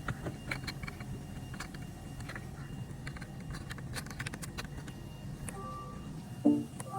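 Scattered light clicks and taps, like small parts or tools being handled, over a steady low hum. A short pitched sound about six and a half seconds in is the loudest moment.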